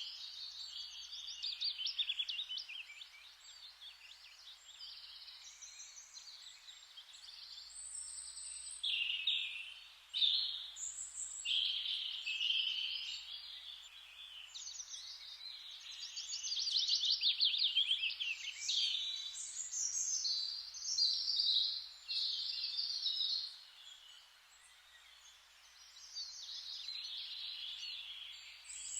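Forest ambience of several songbirds singing and chirping in overlapping phrases and fast trills, over a faint even hiss. The birdsong dips briefly about four-fifths of the way through, then picks up again.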